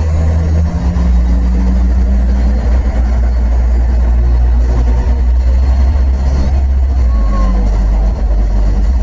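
Steady, loud low rumble of a moving vehicle's engine and road noise picked up by a dashcam, with a faint short chirp near the end.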